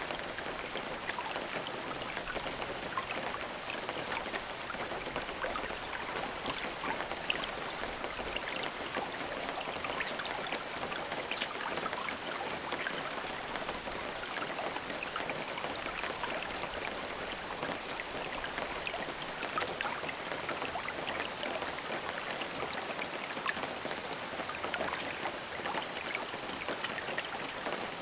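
Steady rain falling, with many individual drops ticking and pattering on a surface.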